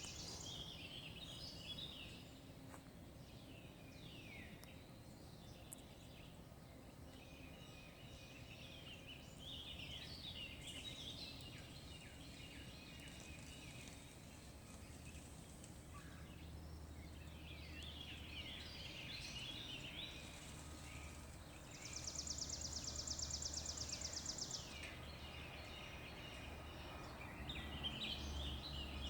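Early-morning birds chirping and calling, many short downward-sweeping notes, with a rapid, even high trill about three-quarters of the way in and again starting at the end. A faint low steady hum runs underneath from about halfway.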